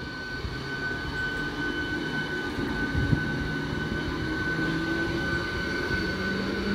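Electric multiple-unit local train passing close by: a steady rumble of wheels on rail with one thud about three seconds in, over a steady high whine and a low hum that edges up in pitch near the end.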